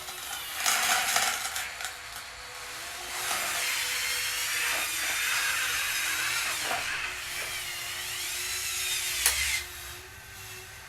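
Small electric motors and gearing of radio-controlled construction equipment whining and grinding, the pitch rising and falling as the controls are worked. A sharp click a little after nine seconds in, after which the whine drops away.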